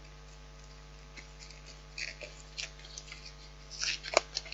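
Cardboard sleeve being handled and slid off a microwave meal tray: scattered papery scrapes and crinkles that start about halfway through and get busier and louder near the end, with one sharp click.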